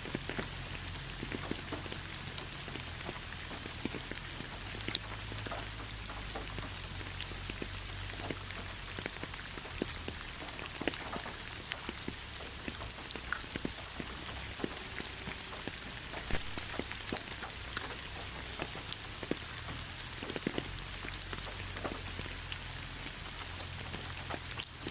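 Steady rainfall, a continuous hiss with many scattered individual drops tapping.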